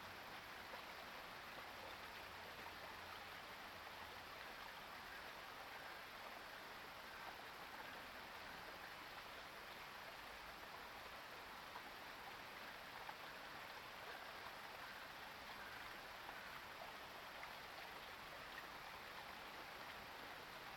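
Faint steady background hiss with a few tiny ticks and no distinct bird calls.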